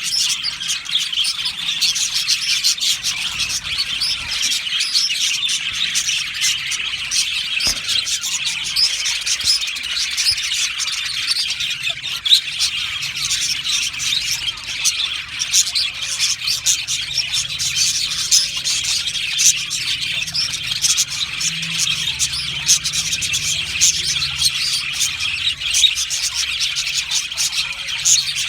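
A colony of budgerigars chirping and warbling all at once, a dense, steady chatter of many overlapping high calls.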